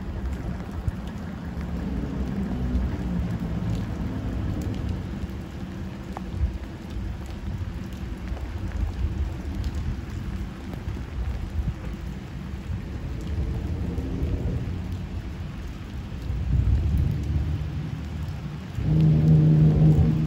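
Steady rain falling over a low rumble. Near the end, a loud steady low tone with overtones starts abruptly: the horn of a Walker diesel railmotor.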